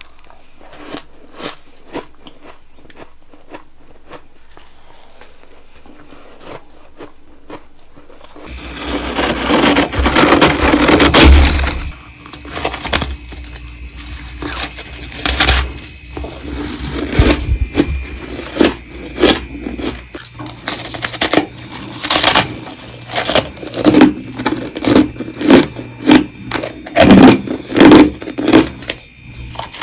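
Freezer frost being scraped and bitten in close-miked crunches. Faint clicks come first, then a loud scraping rush about a third of the way in, then a run of crunching bites and chewing that grows louder and more frequent toward the end.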